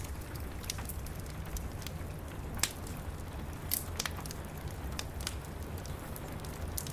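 Wood fire crackling in a fireplace, a few sharp pops standing out against a steady low rumble and the even hiss of rain.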